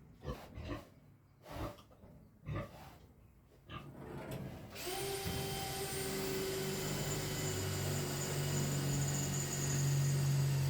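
A few scattered knocks, then about five seconds in a power drill starts and runs steadily, a high whine over a low hum, drilling quarter-inch bolt holes for mounting the waterer's brackets.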